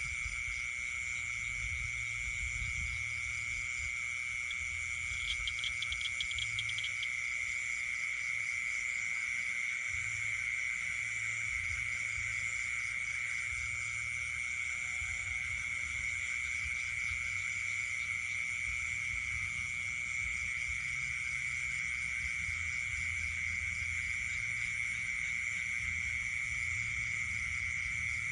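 Night chorus of frogs and insects calling together: a constant high trill from insects over frog calls, with a short burst of faster pulsed calling about five seconds in.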